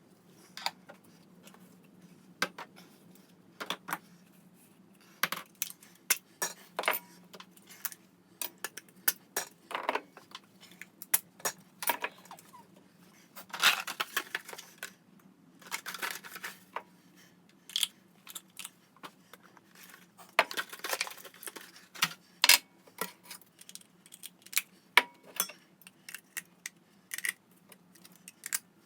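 Small hard objects being handled, clicking and clattering irregularly, with a few louder rattling clusters, over a faint steady hum.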